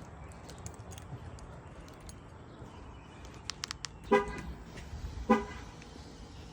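Two short horn chirps about a second apart from a Ram TRX pickup, preceded by a few faint clicks.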